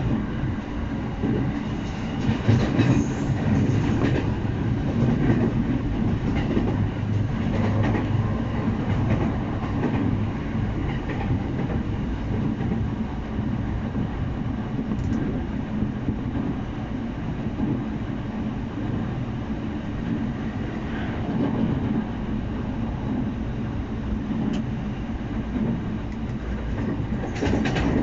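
Electric commuter train running along the track: a steady low rumble with wheels clattering over rail joints, the clatter louder about three seconds in and again near the end.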